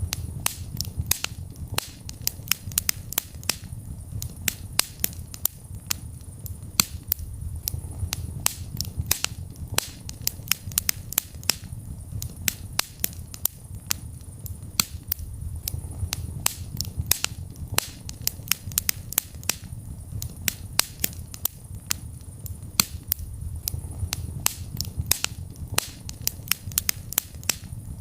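Wood fire in a fireplace crackling: a dense run of sharp pops and snaps, several a second, over the low steady rumble of the burning flames.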